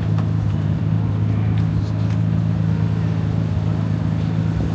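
Car engine running at a steady speed: an even low hum that holds one pitch, with no revving.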